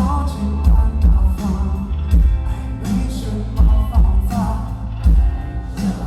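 Rock band playing live, a singer's voice over a steady drum beat of about two beats a second.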